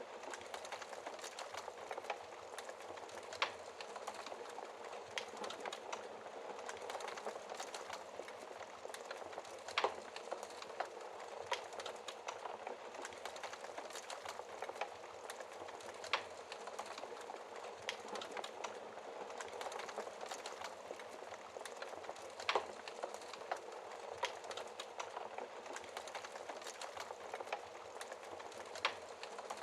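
Wood fire crackling in a fireplace: a steady hiss with frequent small pops and a few louder snaps.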